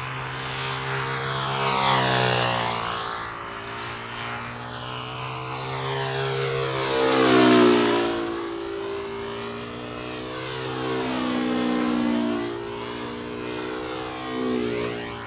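Small control-line model aircraft engine running at high revs as the model flies circles, its pitch and loudness rising and falling with each lap, about every five seconds.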